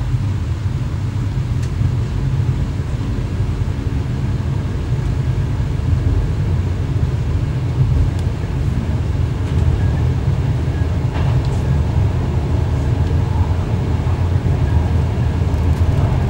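Steady low running rumble of an X11 electric multiple unit, heard from inside its driver's cab, with a few faint clicks.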